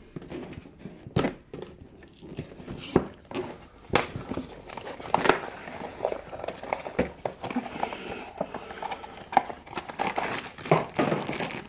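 Small cardboard mystery boxes and crinkly packaging being handled and opened by hand: irregular clicks, taps and knocks with bursts of rustling and crinkling.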